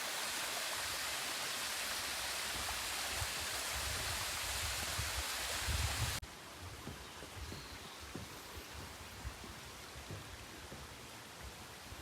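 Mountain valley stream rushing as a steady wash of water noise. Just after six seconds the sound drops suddenly to a quieter, steady stream sound.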